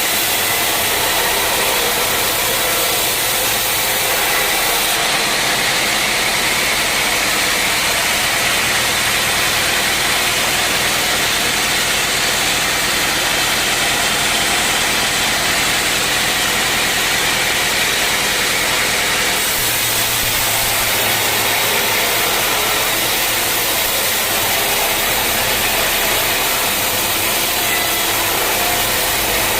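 Sawmill saw running steadily as it cuts through a mahogany log.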